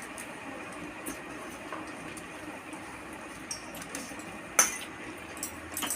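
Scattered light clinks and crackles of dishes while puffed rice is eaten, with one sharp clink about four and a half seconds in.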